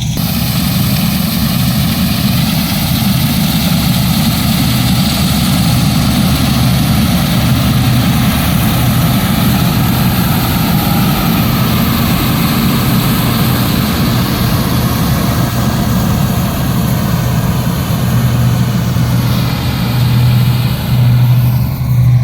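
Wheat-harvesting machinery running steadily and loud: an engine's steady low hum under a wide rushing mechanical noise, the level pulsing slightly near the end.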